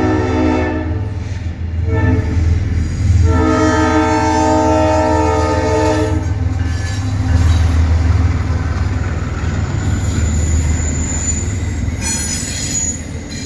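The Nathan S5T five-chime horn of a GE ES44AH diesel locomotive sounds the end of one blast, then a short blast about two seconds in and a long blast from about three to six seconds: the closing part of the grade-crossing signal. The locomotive's diesel engine and the train's wheels run on as it passes, with wheel squeal near the end.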